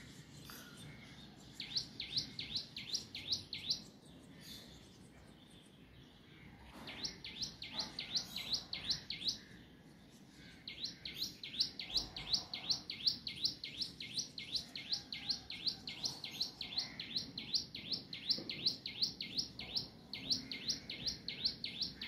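A small songbird calling in runs of quick, sharply rising whistled notes, about five a second. There are two short bouts, then a long unbroken run from about halfway in. The repeated rising notes sound like an ambulance siren.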